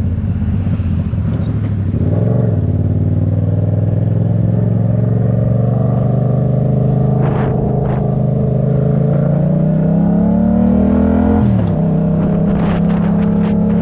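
A vehicle engine under way, its pitch rising slowly for about nine seconds as it accelerates, then dropping sharply near the end as it shifts up a gear, and running steadily after.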